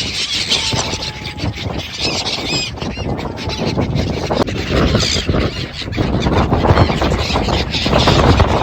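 Seagulls giving a few short, high calls over a dense background of wind rumble and general harbour noise.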